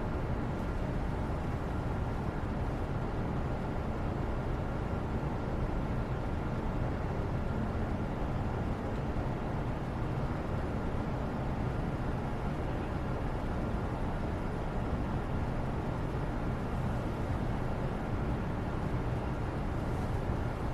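Steady background noise used as a white-noise study backdrop: an even, unbroken rumble-like hiss, heaviest in the low end, with a faint steady tone over it and no distinct events.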